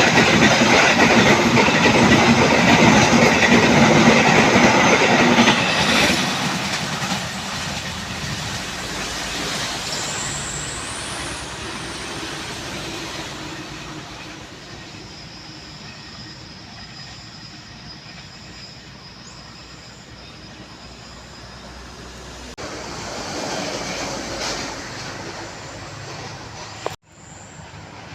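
A train passing at speed over railway points: loud rumble and wheel-on-rail noise for about six seconds, then fading away as it leaves. A brief high rising squeal comes about ten seconds in.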